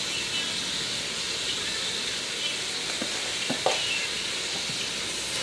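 Chopped onions sautéing in an aluminium pot, a steady high sizzle, with a few light knocks a little past the middle.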